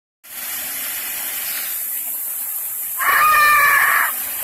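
Steady rushing noise of a waterfall, with a child's long, high-pitched shout held at one pitch for about a second, starting about three seconds in.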